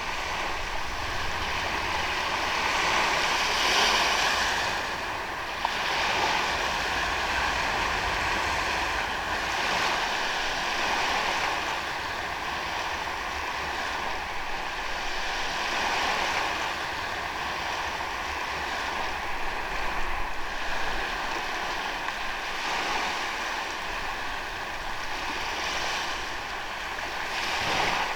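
Ocean waves breaking and washing on a beach, a continuous hiss of surf that swells and eases every few seconds.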